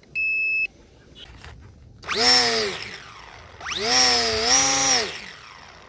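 A short electronic beep from the RC transmitter switching on, then the XK A250's small electric motor and propeller spinning up and back down twice: a rising-then-falling whine about two seconds in, and a longer one held for about a second shortly after.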